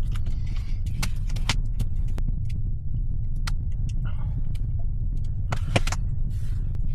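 Wood fire crackling, with scattered sharp pops, a few close together near the end, over a steady low rumble.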